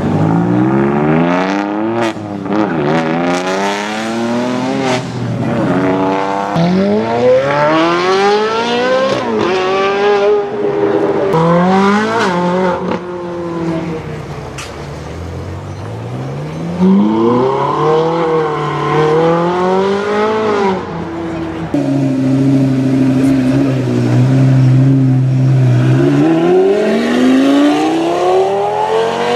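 Supercar engines accelerating away one after another, each rising in pitch and dropping back at the gear changes. In the last third one engine holds a steady tone for a few seconds before revving up again.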